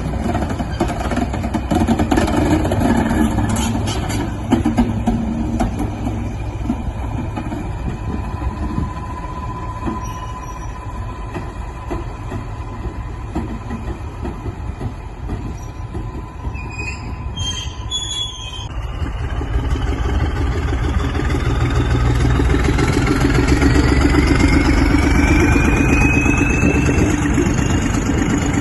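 Diesel locomotive running on the line with a steady high squeal over the noise. About two-thirds in, its engine note deepens and grows louder, with a whine rising steadily in pitch as it picks up speed.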